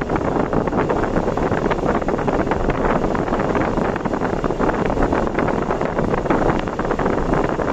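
Steady road and wind noise from a car travelling at speed on an expressway.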